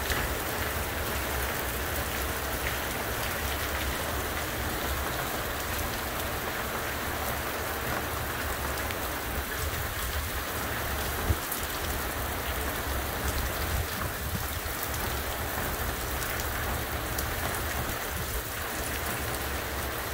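Monsoon rainstorm: rain falling steadily, with one short sharp tap about eleven seconds in.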